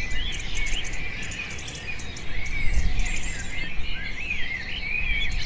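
Several small birds chirping and twittering in short calls that curve up and down in pitch, over a low background rumble.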